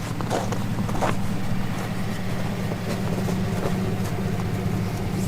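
An engine running steadily at idle, a low even hum that does not change. A few faint brief rustles or knocks sound near the start.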